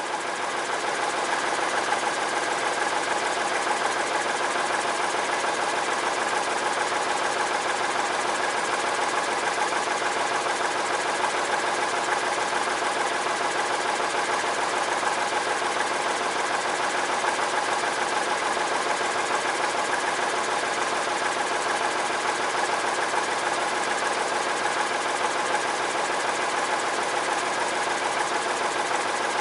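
A sawmill's engine running steadily. Its level climbs over the first couple of seconds, then holds even throughout, with no change in pitch.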